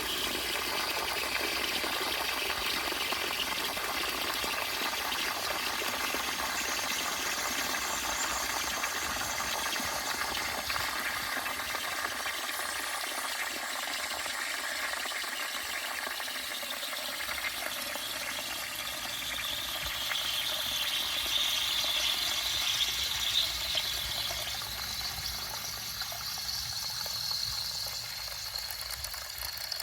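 Water running into a 1940s W & J Lawley 402 cast iron bell cistern through its Pegler Part 1 ballvalve as it refills: a steady hiss and splash, a little louder about two-thirds through and easing near the end.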